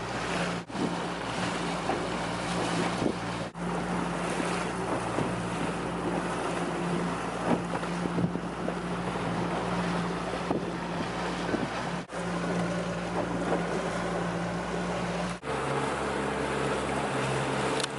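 Motorboat engine running at a steady cruising hum under the rush of water and wind on the microphone. The sound drops out briefly a few times, and near the end the engine note changes.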